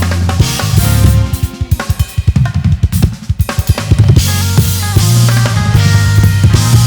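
Live band playing with drum kit, bass and keyboards. About two seconds in, the held bass and keyboard notes drop back and a run of quick drum strokes carries for a second or so, then the full band comes back in.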